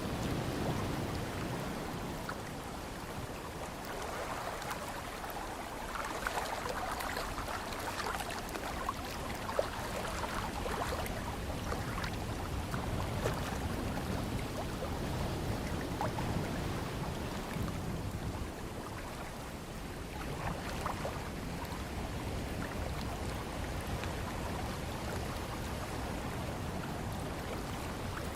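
Ocean surf: a steady rush of water, with many small sharp splashes and drips throughout.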